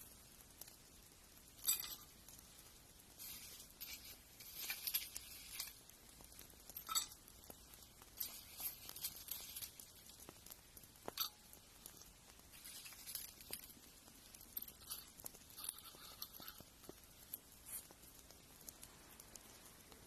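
Fingernail grinding: irregular bursts of short, scratchy scraping strokes, with a few sharp clicks in between.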